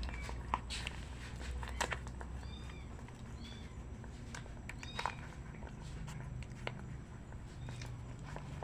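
Young puppies whimpering in short, high-pitched squeaks, about four of them, with a few light clicks and knocks.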